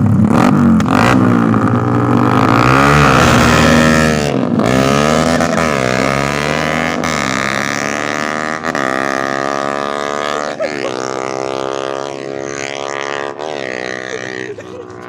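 Small motorcycle engines at full throttle. The pitch dips and climbs again a few times through gear changes, then holds a high, steady note that grows fainter as the bikes pull away.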